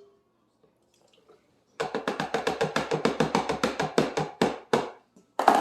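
Rapid run of about twenty sharp knocks, some six a second, fading out, then one louder knock near the end: the switched-off juicer's parts being tapped and shaken to get the last juice out.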